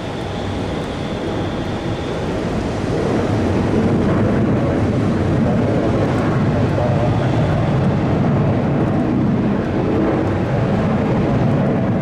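Jet airliner's engines rumbling, building over the first few seconds, then holding steady and easing off near the end.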